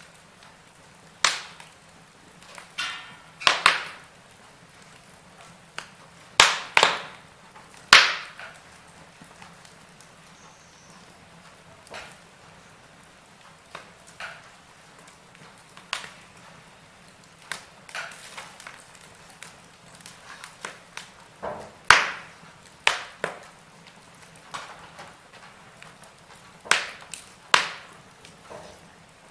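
Wood fire burning in a fireplace, crackling with irregular sharp pops and snaps, some loud and some faint, over a low steady hiss.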